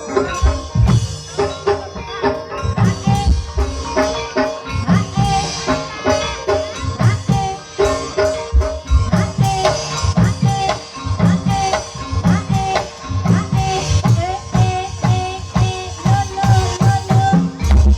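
Javanese ebeg (kuda kepang) dance music: hand drums beating a fast, busy rhythm under a melodic line of short repeated notes, some of them bending in pitch.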